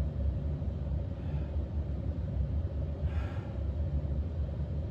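Steady low rumble, with a man's short, hard breaths between exercise sets, a faint one about a second in and a clearer one about three seconds in.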